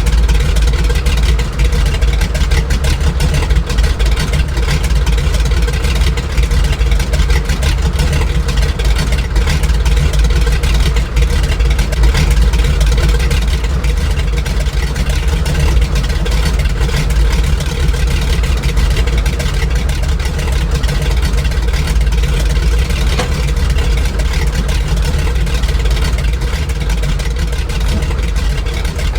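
Grumman Goose's twin Pratt & Whitney R-985 Wasp Junior radial engines running steadily, a loud, even drone heavy in the low end.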